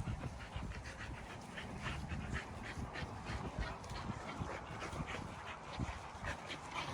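American bully puppies playing and scuffling together, with quick irregular rustles and faint panting; no barking.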